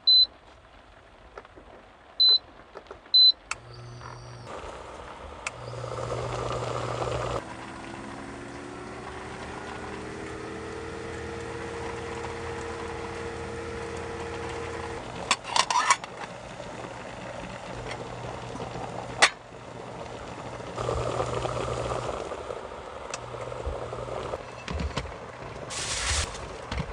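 Three short, high electronic beeps, then an electric appliance starts running with a steady low hum. A whine rises slowly in pitch over several seconds and then holds steady. There are a few sharp clinks partway through and a brief hiss near the end.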